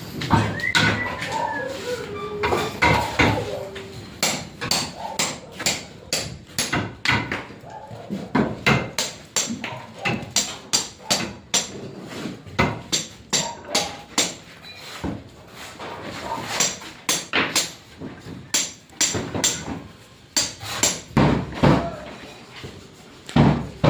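Repeated hammer blows on a construction site, irregular, a few strikes a second, with voices in the first few seconds.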